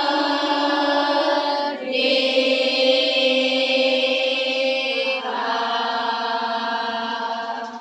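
School choir of young voices singing three long held chords, the last one released near the end.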